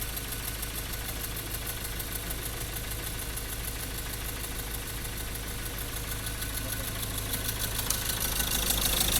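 Ford Ranger 2.2 diesel engine running with engine noise and misfiring, getting louder near the end. The cause is the tip of cylinder 3's glow plug, broken off and fallen into the cylinder, where it damaged the cylinder wall.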